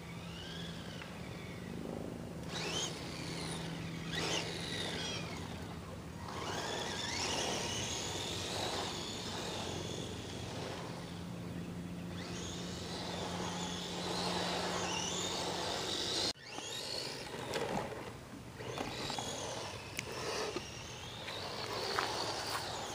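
Madgear Desert Wolf electric short course RC truck driving, its motor and gears whining up and down in pitch as the throttle is worked, over a rough noisy hiss. The sound breaks off abruptly about two-thirds of the way through and resumes.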